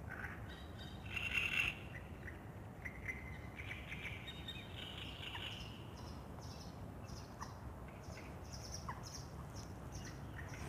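Dawn chorus of small songbirds chirping and singing, with a louder cluster of calls about a second in and a run of brief high notes through the second half, over a steady low background rumble.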